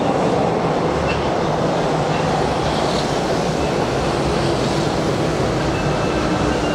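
Hanshin Railway electric train running along the platform: a loud, steady rumble of wheels on the track, with a faint steady whine coming in near the end.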